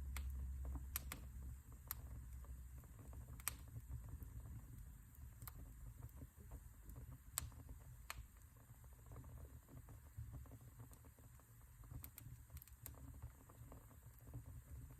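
Wood fire in a fireplace crackling: faint, irregular pops and snaps over a low rumble, with a couple of louder snaps standing out.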